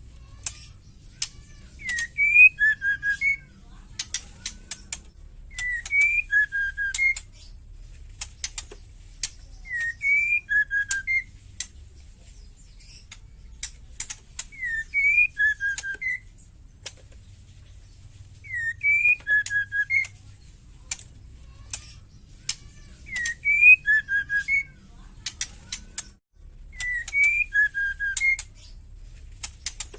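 Female white-rumped shama calling: a short whistled phrase, one note swooping up then a few quick lower notes, repeated about every four seconds. Between the phrases come sharp clicking rattles, the bird's ketrekan chatter.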